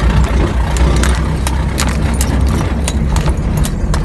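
Pickup truck running as it drives over a rough, freshly cleared dirt track: a steady low rumble with frequent irregular knocks and rattles as it bumps along.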